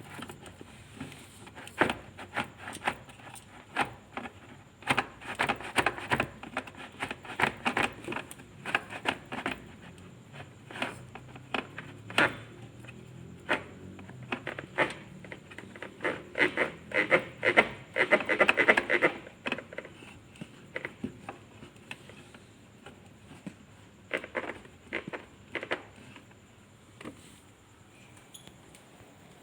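A quick run of clicks and scrapes from hard objects being handled and worked, thickest through the middle, then thinning to a few more clicks before stopping near the end.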